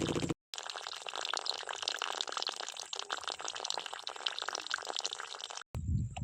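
Water pouring and splashing steadily for about five seconds, full of small drips and splatters, as from a miniature water pump's outlet. It opens with a split second of a small pump motor humming, cut off suddenly.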